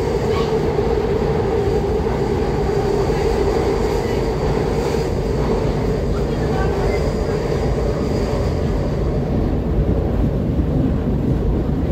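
SEPTA Market-Frankford Line train running along the elevated track, heard from inside the car: a steady rumble of wheels and running gear with a constant droning hum.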